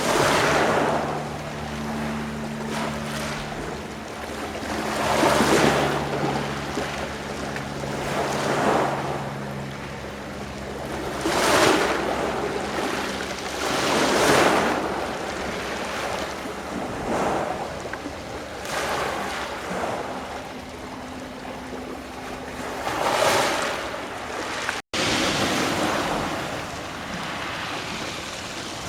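Small sea waves washing onto the shore, the wash swelling and falling back every two to three seconds, with a faint steady low hum underneath. The sound cuts out for an instant near the end.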